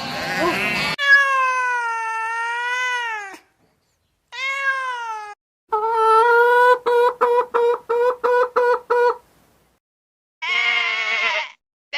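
A cat meowing: a long wavering meow, then a shorter one, then a quick run of about eight short meows at a steady pitch, and one more meow near the end. A different animal call fills the first second.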